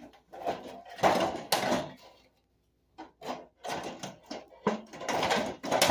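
Pliers working staples out: a series of short scraping and rasping bursts, with a pause of about a second in the middle before more tugging.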